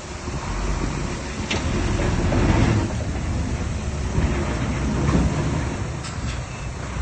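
Heavy earthmoving machinery running, a steady low diesel rumble that swells from about half a second in.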